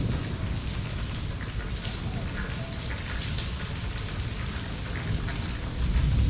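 Steady rainfall with individual drops hitting close by, over a low rumble that grows louder near the end.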